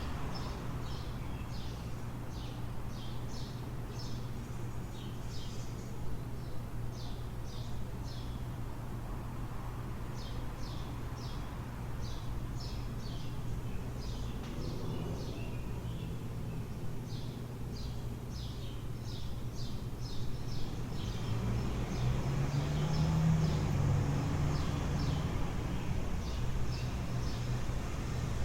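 Dawn street ambience: small birds chirping in quick repeated runs of short high notes over a steady low city hum. A motor vehicle passes in the last third, its engine sound swelling and then fading.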